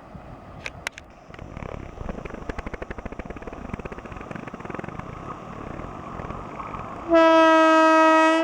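An Indian Railways express train approaching at speed: rail rumble building up with rapid clicking, then the locomotive's horn sounding one long, loud, steady blast about seven seconds in.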